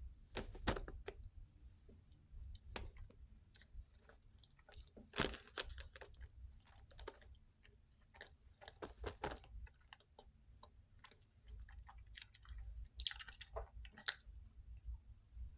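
A person chewing a soft Chips Ahoy! Confetti Cake cookie close to the microphone, with irregular mouth clicks and smacks.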